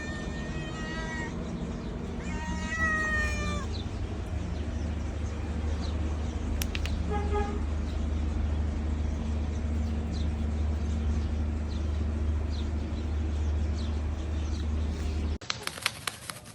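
A domestic cat meowing twice in the first few seconds, each a drawn-out pitched call, over a steady low hum. Near the end the sound cuts to a rapid run of sharp clicks.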